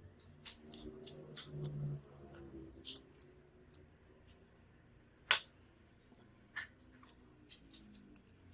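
A run of small, sharp clicks and taps from repair tools working on a phone, irregularly spaced, with one louder click about five seconds in.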